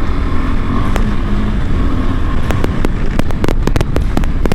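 KTM 390 Adventure's single-cylinder engine running under a low rumble as the bike rides a dirt trail. From about two and a half seconds in come many sharp clicks and knocks in quick succession.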